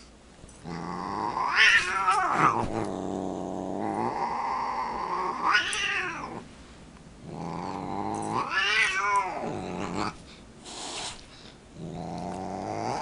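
Domestic cat growling and caterwauling, a low continuous growl that swells three times into long rising-and-falling yowls: a cat's threat display against a dog.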